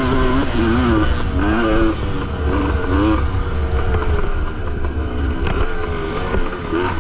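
1973 Yamaha MX250's 250 cc two-stroke single-cylinder engine under racing throttle, its pitch rising and falling several times in the first few seconds, running steadier and lower in the middle, then climbing again near the end.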